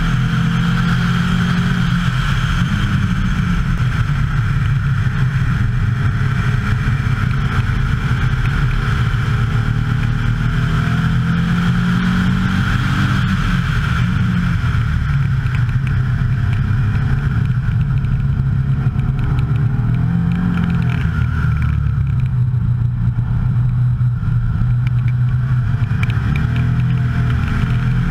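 Turbocharged 2,165 cc air-cooled VW Beetle 1303 flat-four engine running hard on a race lap. Its pitch rises and falls with the revs through the corners, with a downshift along the way.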